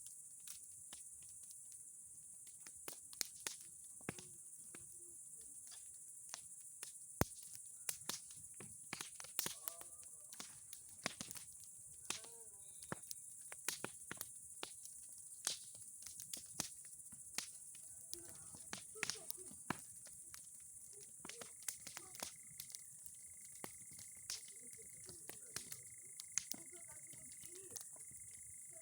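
Bonfire of old boards and pine cones crackling, with irregular sharp snaps and pops. A steady high insect chirring, typical of crickets, runs beneath.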